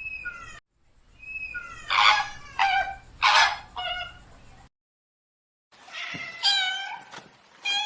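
Domestic cat meowing repeatedly, a series of short calls that slide in pitch, broken by about a second of silence partway through.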